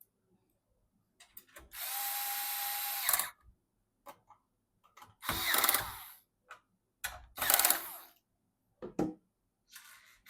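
Cordless electric screwdriver driving screws in short runs: one long run of about a second and a half with a steady whine, then shorter runs and brief bursts, with small clicks of parts between them.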